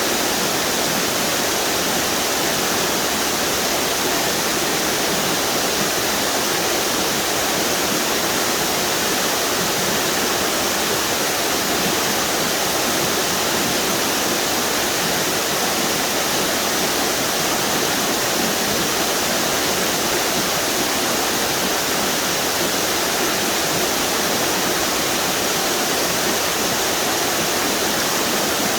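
A string of small waterfalls on a river, water pouring and splashing in a steady, even rush.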